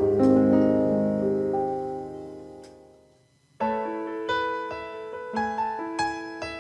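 Piano background music: the final held chord of a song dies away to near silence about three seconds in, then a new song's piano introduction starts with a run of struck notes.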